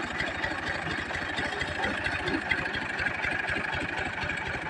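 Tractor diesel engine running steadily, with a fast, even beat of firing pulses.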